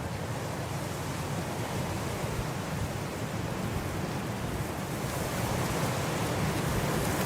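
Blizzard wind blowing as a steady rushing noise with a low rumble, slowly swelling louder as a gust builds.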